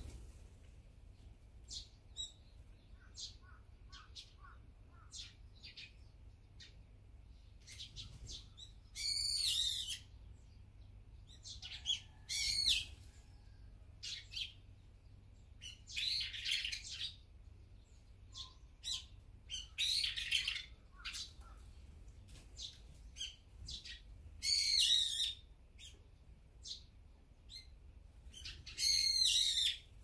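Brown-eared bulbul calling: about six loud calls, each around a second long, repeated every few seconds, with short faint bird chirps in between.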